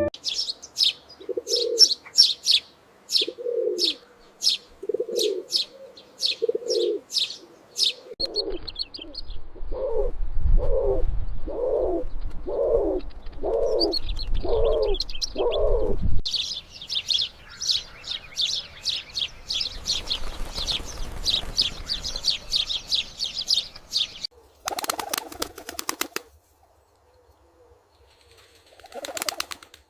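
Sparrows chirping in quick high trills while a pigeon coos in repeated low calls, about one a second at first and faster near the middle. A short, noisy rustle comes near the end.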